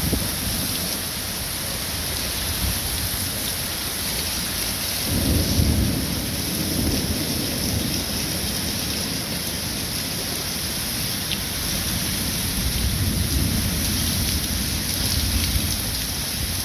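Heavy rain pouring steadily in a thunderstorm, with low rumbles of thunder swelling about five seconds in and again near the end.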